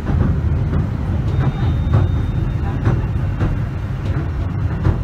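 Pier train heard from inside the carriage as it draws into the station: a steady low rumble with scattered faint clicks and knocks.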